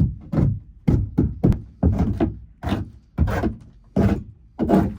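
A hammer driving a chisel into the rotten wood core of a fibreglass boat hull: a run of about a dozen dull knocks, two to three a second at an uneven pace.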